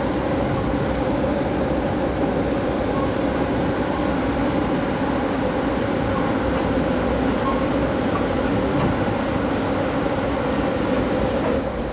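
Passenger train running at speed, heard inside the car: a steady rumble of wheels on rail with a constant low hum.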